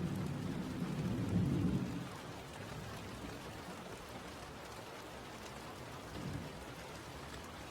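Steady rain with a low rumble of thunder that fades out about two seconds in; a fainter rumble follows near the end.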